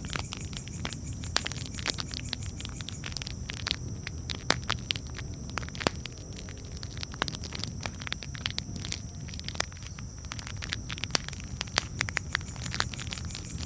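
Wood campfire crackling: irregular sharp pops and snaps of burning wood over a steady low rumble.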